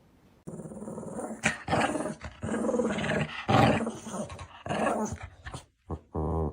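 A dog growling in a string of uneven, rough bursts that starts abruptly about half a second in and turns choppier near the end.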